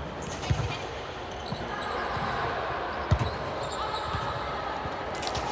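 Volleyball impacts: a sharp thud about half a second in and a louder one about three seconds in, with a few fainter knocks, over a background of voices.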